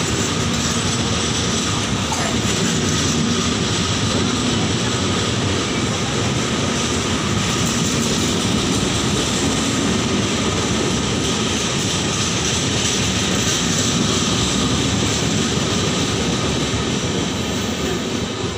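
Express passenger train running through at speed, its coaches' wheels on the rails giving a loud, steady noise that falls away near the end as the last van passes.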